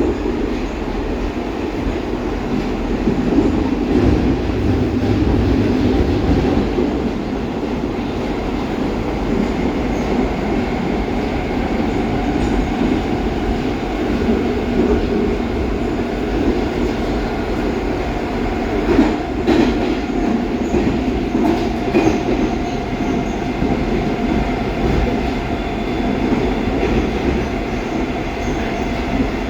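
Baltiets metro train running between stations, heard inside the car: a steady rumble of wheels and running gear on the track, with a few short knocks about two-thirds of the way through.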